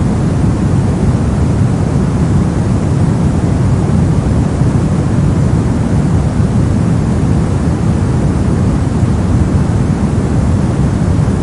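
Brown noise: a steady, loud rushing hiss with its weight in the low end and little treble, unchanging throughout.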